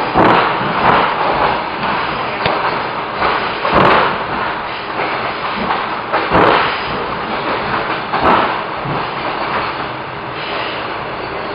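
Suburban electric train running, heard from inside the carriage: a steady rumble and rush of the train in motion, broken by about four heavy knocks from the wheels on the track.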